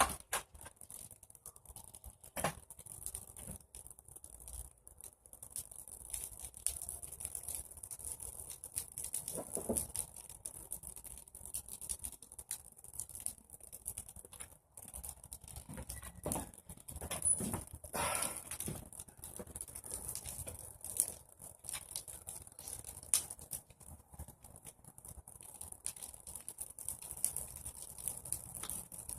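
Bonfire of pruned tree branches crackling, with irregular sharp pops and snaps over a steady high hiss, busiest a little past the middle.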